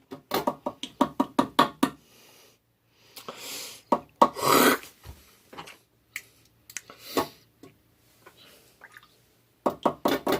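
A man gagging and dry-heaving in disgust: a quick run of short choking bursts, a loud heave a few seconds in, then another run of short bursts near the end.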